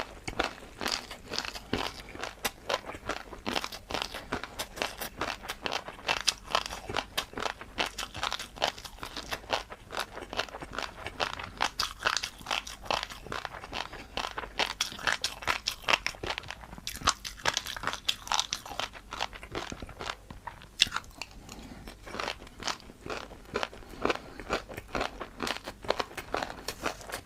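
A person chewing crunchy food close to the microphone: a dense, continuous run of sharp crackling crunches, with a brief lull about three-quarters of the way through.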